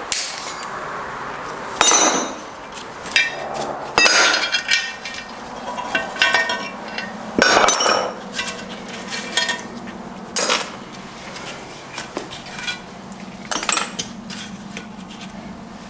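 Metal parts of a Subaru six-speed transmission being taken apart, clinking and knocking against each other in irregular clanks, some with a short ring.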